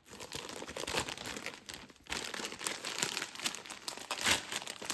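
Packaging crinkling and rustling with many small crackles as the parts of an aftermarket exhaust kit are unwrapped and handled.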